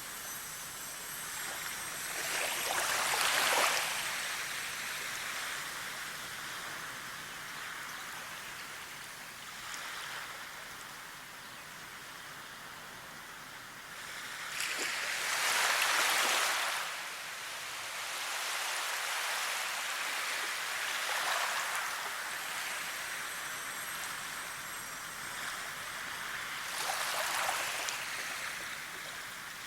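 Running water hissing steadily, swelling louder every ten seconds or so, strongest near the start, the middle and the end.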